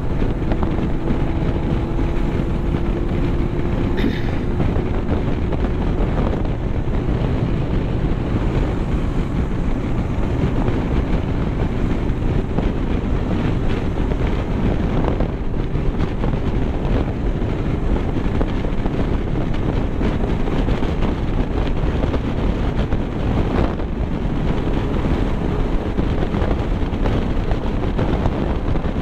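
Wind rushing over the microphone on a moving vehicle, with steady road and engine noise underneath.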